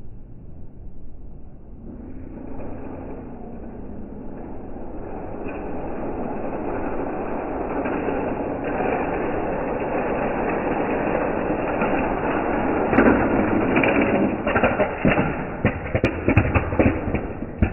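Die-cast toy cars rolling down a plastic race track, heard as slowed-down slow-motion audio: a low rolling rumble builds over several seconds, then turns into a rapid run of clattering clicks and knocks near the end.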